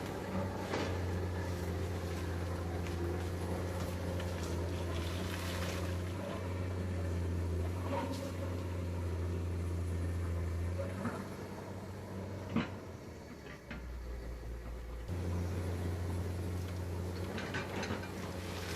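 Komatsu PC200 hydraulic excavator's diesel engine running steadily under work, with scattered clanks and knocks. About eleven seconds in the engine note drops lower for a few seconds, then comes back up.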